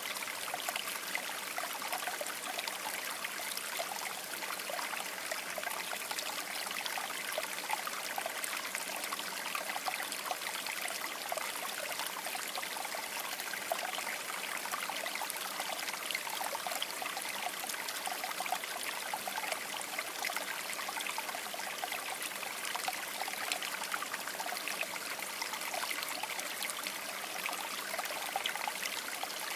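River water babbling and trickling over rocks, a steady flowing sound with small splashes.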